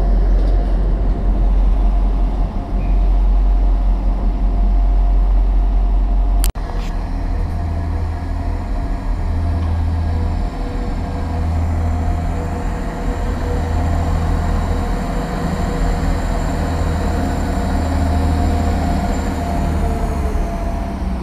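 Diesel multiple-unit trains running at low speed: a heavy, pulsing engine rumble with a steady whine over it. About six and a half seconds in the sound breaks off sharply, and near the end the whine falls in pitch.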